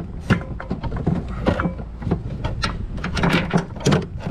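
Boat steering cable being pulled through a hull rigging grommet: irregular scraping, rubbing and knocking, several quick knocks a second, as the cable drags the grommet out with it.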